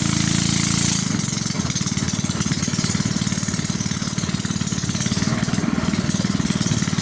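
Small boat's engine running; about a second in it drops from a steady, higher-pitched drone to a slower, rapidly pulsing beat, as when the throttle is eased back.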